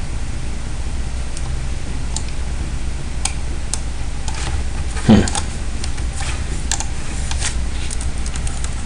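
Computer keyboard typing: scattered key clicks, picking up about three seconds in, over a steady low hum, with one heavier thump about five seconds in.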